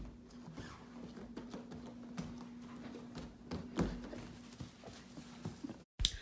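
Faint room noise: scattered light clicks and taps over a steady low hum, which cuts off suddenly near the end.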